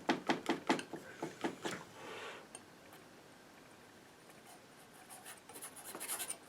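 Palette knife scraping and tapping on a palette while mixing paint: a quick run of short strokes, about five a second, over the first two seconds, then a softer scrape, and more light strokes near the end.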